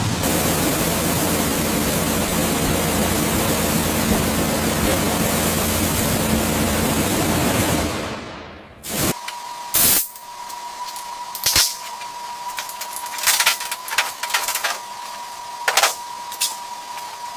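Car-restoration workshop noise: a loud, steady hiss that fades out about eight seconds in, then a faint steady whine with scattered sharp knocks and clicks.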